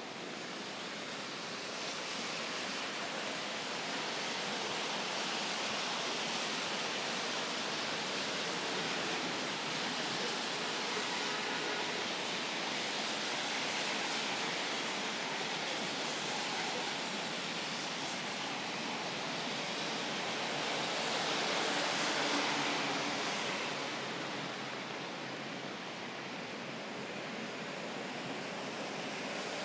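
Steady rain falling, heard as an even hiss, rising for a few seconds about twenty-two seconds in.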